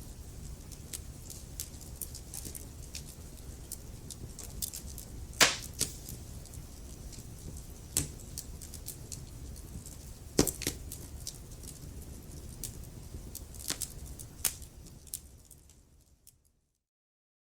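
Wood fire burning in a fireplace: a steady low rumble of flames with frequent sharp crackles and a few louder pops. Near the end the sound fades out to silence.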